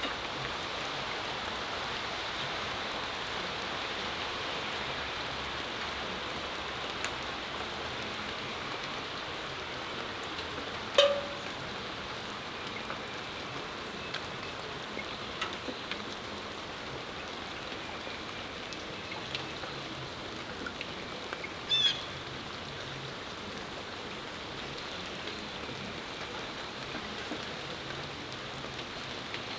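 Steady rain falling, an even hiss of drops on the patio and surroundings. Two louder sharp ticks stand out, one about a third of the way in and one past the two-thirds mark.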